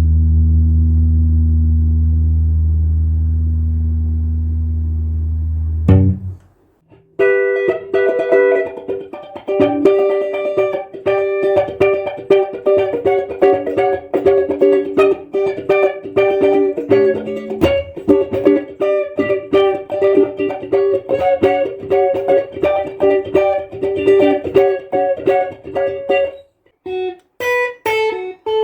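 A steady low sustained tone that cuts off about six seconds in, then an electric guitar playing a fast run of quickly picked single notes, with a short break and a few more notes near the end.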